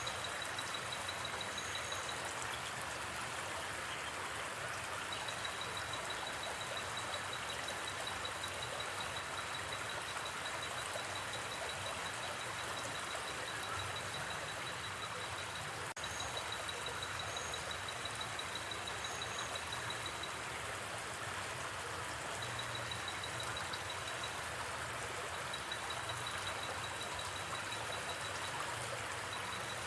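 Steady rushing of a flowing river, with a high, even trill repeating in long runs over it, like a night insect, and a few short higher chirps.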